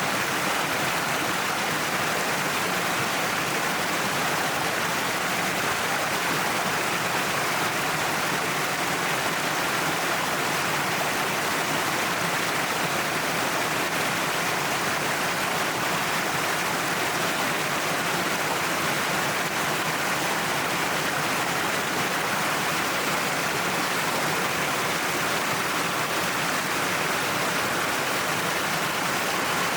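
Waterfall pouring down a cliff face, a steady, even rush of falling water.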